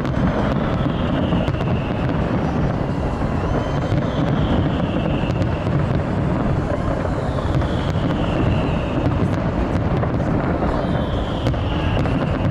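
Dense, steady crowd noise from a large outdoor gathering, with wind buffeting the microphone. A high falling whistle, about a second long, recurs every three to four seconds.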